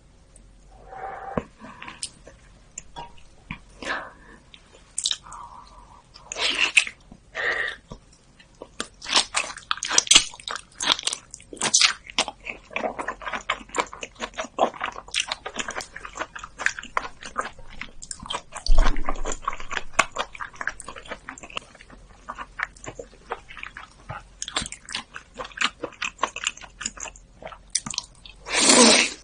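Close-miked eating sounds: biting and wet chewing of sushi and food, a steady run of small clicks and crackles, with a louder burst near the end.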